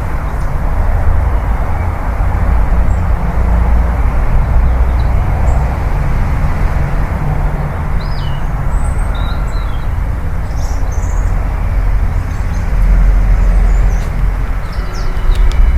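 Steady low outdoor rumble, like city traffic noise, with a few short bird chirps over it.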